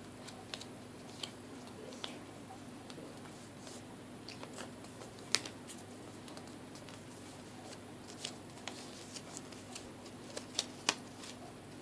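Irregular light clicks and taps from hands handling craft materials, with a sharper click about five seconds in and two more near the end, over a steady low hum.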